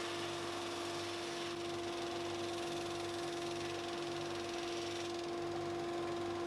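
A stationary woodworking machine running steadily without cutting: a constant hum with a steady pitched tone over a rushing noise.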